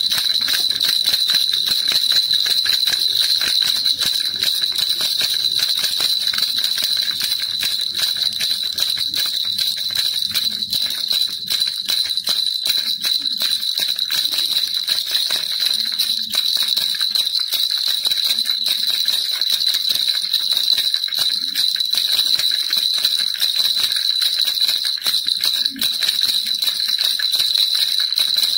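Baby rattle shaken without pause, a dense, steady jingling with a constant high ring.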